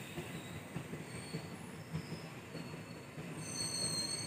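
Passenger coaches of an Indian Railways express train rolling slowly past, a low rumble with irregular thumps from the wheels. Thin, high-pitched wheel squeal comes and goes and grows stronger near the end.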